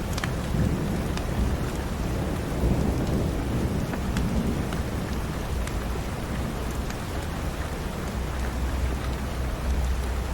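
Steady rain with a low rumble underneath, heaviest in the first half, and a few sharp pops from a crackling wood fire in a fireplace.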